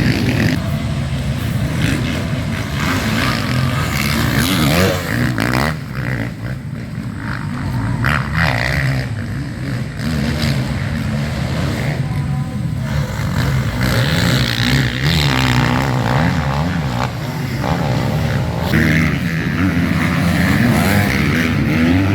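Motocross bikes racing, their engines revving up and down in pitch as they accelerate and shift.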